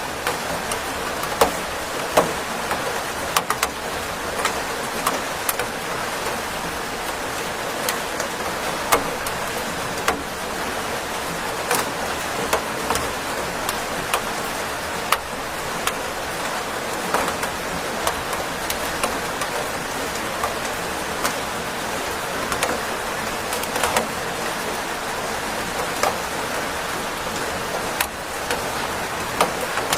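Steady rain falling: a dense, even hiss with many scattered sharp drop impacts throughout.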